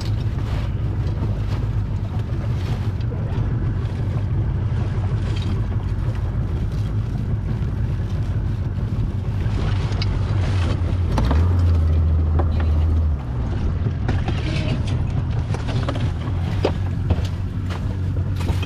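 Steady low rumble of a small fishing boat at sea, with wind on the microphone and scattered small knocks. A louder low hum comes in for about two seconds midway.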